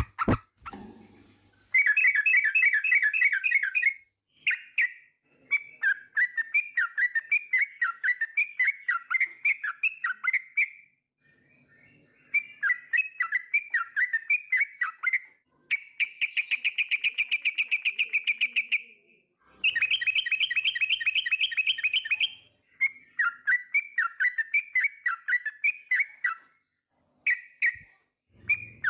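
Yellow-vented bulbul (trucukan) singing in bouts of fast, bubbling chirps a few seconds long with short pauses between. One phrase a little past halfway is a rapid even trill.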